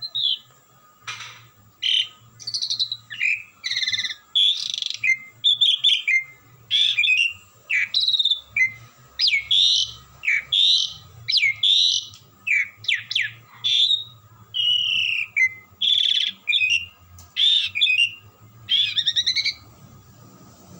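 Pied starling (jalak suren) singing non-stop: a rapid string of short whistled and rasping notes, one after another with brief gaps.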